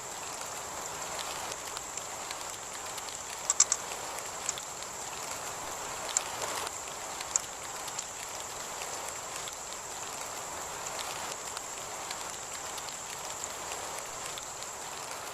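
Heavy rain falling steadily, with a steady high-pitched tone above it and a few sharp taps: three close together about three and a half seconds in, and single ones a few seconds later.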